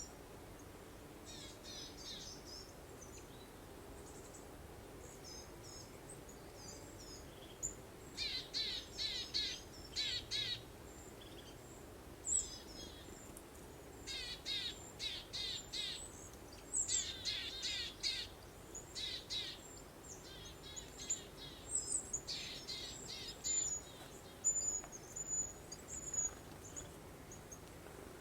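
Songbirds singing: phrases of rapid repeated chirps and trilled notes, faint at first and coming in clearly from about eight seconds in, over a soft steady hiss of breeze.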